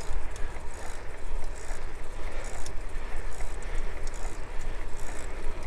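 Wind rumbling on the microphone of a moving bicycle, over a steady hiss of road noise.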